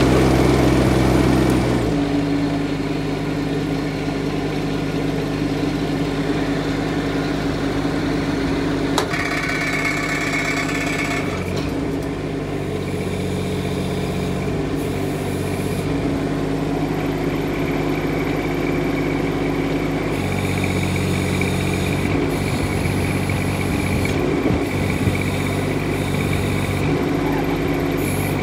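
Kubota D722 three-cylinder diesel of a mini excavator running steadily, louder for the first two seconds before settling, with its note shifting a few times as engine speed or hydraulic load changes.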